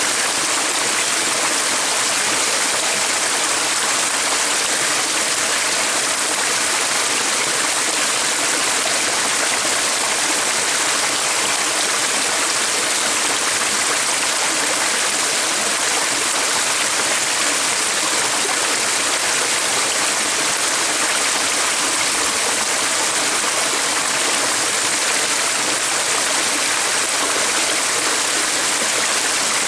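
Flowing stream: a steady, even rush of running water that does not change.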